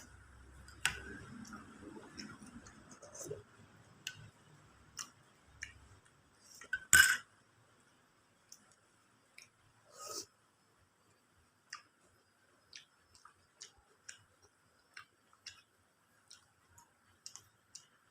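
A person eating chicken biryani close to the microphone: chewing with scattered sharp mouth clicks and ticks, and one loud sharp clack about seven seconds in.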